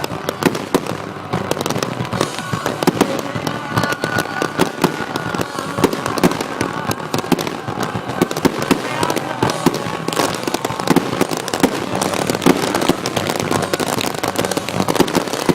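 Firecrackers crackling and popping rapidly and continuously, with music and voices faintly underneath.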